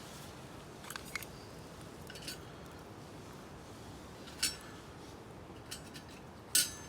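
A few sharp metallic clinks and taps of camp cookware being handled, spaced irregularly. The last two are the loudest and ring briefly.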